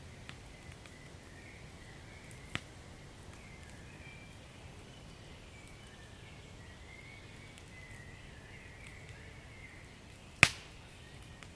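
Wood fire crackling over a low steady rumble, with scattered small clicks, a sharp pop about two and a half seconds in and a much louder pop near the end.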